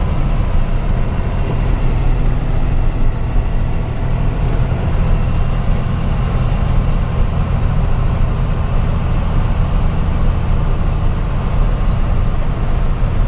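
Truck engine running under way, heard from inside the cab: a steady heavy low drone with road noise.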